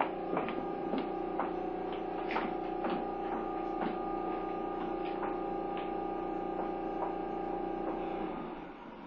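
Tobu 30000 series subway train standing at a platform: a steady electrical hum from its onboard equipment, with scattered light clicks. The hum cuts off about eight seconds in.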